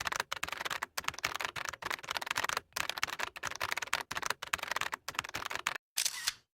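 A sugar glider crunching an insect, a rapid run of crisp crackling bites and chews in short bursts with brief pauses.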